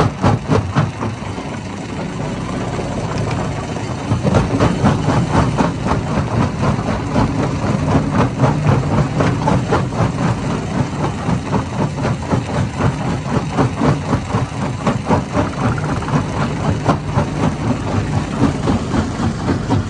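Hammer-type stone crusher running, with a steady engine drone and a fast, regular clatter of knocks as rock is broken. The knocking eases for a few seconds about a second in, then picks up again.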